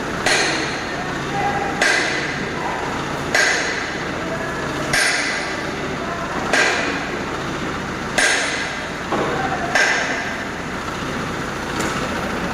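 Heavy hammer blows on steel parts during cone crusher repair: seven evenly paced strikes about one and a half seconds apart, each ringing briefly, over steady background machinery noise.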